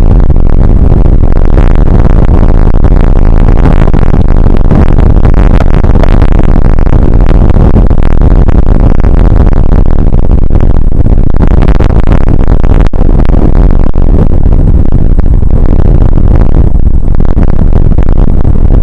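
Rain shower and wind hitting an outdoor weather camera's microphone, a constant, heavy rumble that overloads it to a distorted roar.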